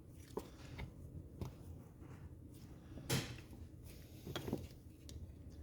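Small clicks and taps of power-valve parts being handled on a workbench as a seal is pushed into a Ski-Doo E-RAVE power valve housing, with two brief louder scuffs, about three seconds in and again about a second and a half later.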